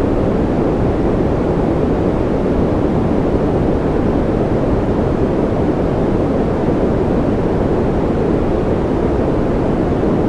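Continuous white-noise track for soothing babies: an even, unchanging rush with most of its weight in the low and middle pitches and little high hiss.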